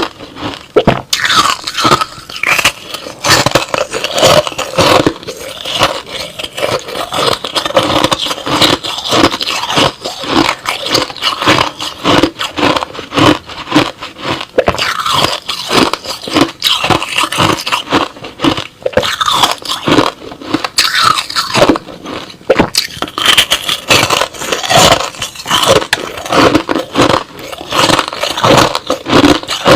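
Close-up crunching and chewing of crushed ice and slush in the mouth, a dense run of crisp crackling bites with scraping in between.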